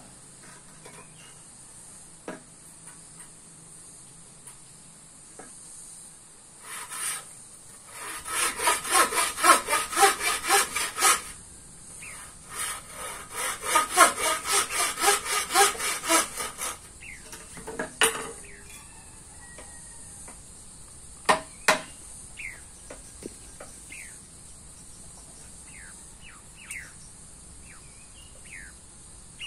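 Two runs of rhythmic back-and-forth sawing strokes, about four a second, each lasting a few seconds, followed by a few sharp knocks.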